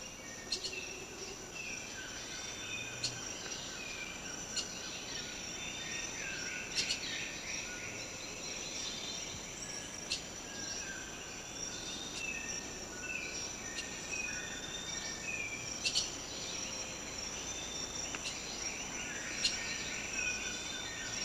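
Tropical rainforest ambience: a steady high-pitched drone of insects, with birds calling short repeated phrases and sharp chirps every second or two.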